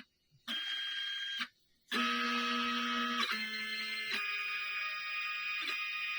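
Stepper motors of a CNC pen plotter whining as it draws, each move a steady tone that jumps to a new pitch when the next stroke starts. The machine falls silent twice in the first two seconds, briefly each time.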